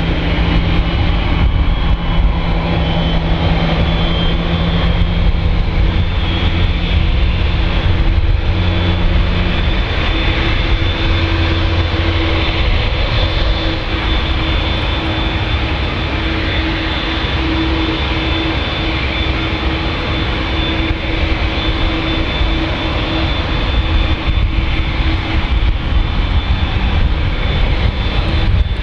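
Boeing 787-8 Dreamliner's GEnx-1B turbofans running loud and steady, a low rumble under a high whine, with one lower tone dropping out about ten seconds in.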